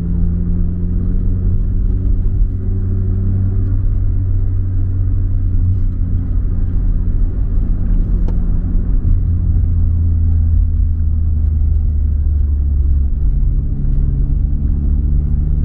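Nissan Silvia S15 Spec R's turbocharged SR20DET four-cylinder engine running as the car is driven, with road rumble; a steady low drone whose pitch shifts a few times as the engine speed changes.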